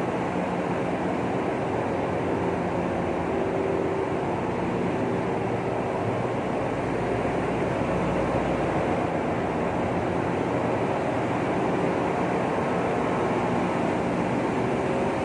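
Steady machinery noise in a very large crude carrier's engine room, beside the main engine's flywheel: a constant loud din with a few steady low hum tones, unchanging throughout.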